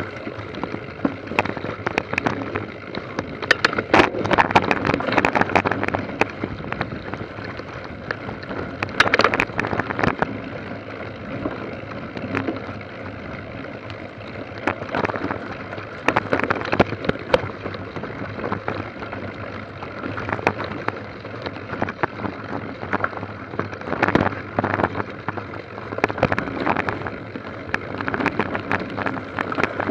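Bicycle being ridden over rough, sandy ground: a steady rush of tyre and wind noise with many irregular small rattles and knocks, louder in a few stretches.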